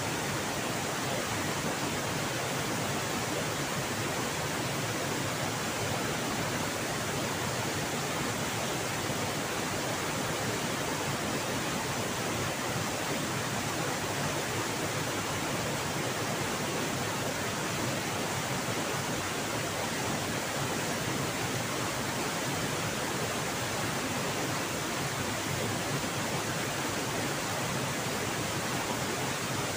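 Steady, even rush of a fast-flowing river at a waterfall.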